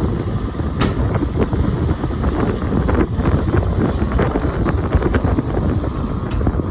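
Strong wind buffeting the microphone: a dense, steady rumble with constant crackling.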